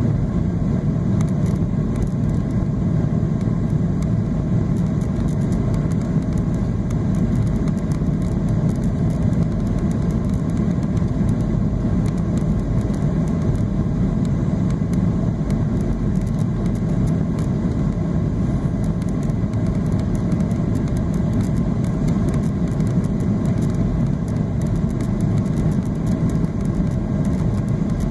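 Steady low rumble of a Boeing 737-800's engines and airflow, heard inside the passenger cabin and holding an even level with no surges.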